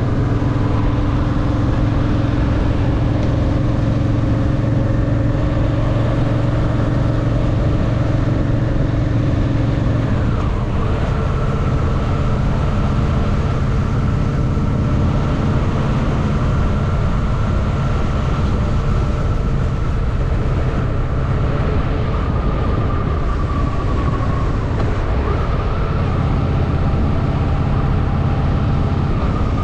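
Honda Shadow VT750's V-twin engine running under way. Its pitch changes sharply about ten seconds in and falls away near the end as the revs ease off.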